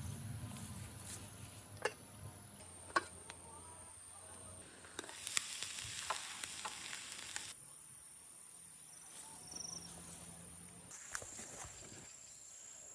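Shrimp sizzling as they grill over a wood fire, with sharp pops and crackles. A louder hissing stretch comes about five seconds in and lasts a couple of seconds, and the sound shifts abruptly several times.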